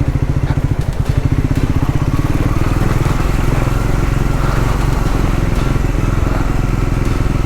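Triumph Scrambler 400X's single-cylinder engine running at low revs with an even, pulsing beat.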